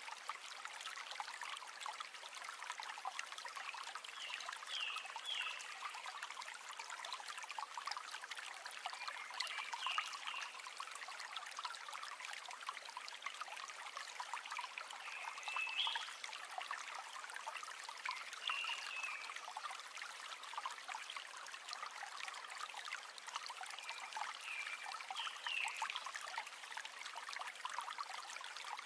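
River water running, a steady trickling and babbling full of small splashes. A short, high chirp from an animal comes through about five times, every few seconds.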